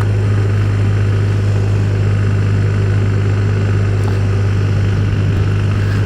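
Motorcycle engine running at a steady cruising speed, one constant low note, under a steady rush of wind noise.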